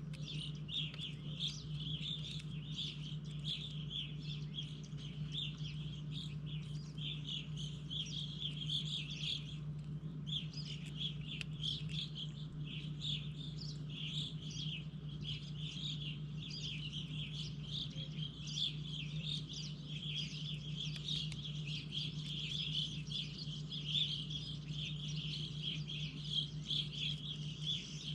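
Many small birds chirping and twittering in a dense, continuous chorus, with a brief lull about ten seconds in, over a steady low hum.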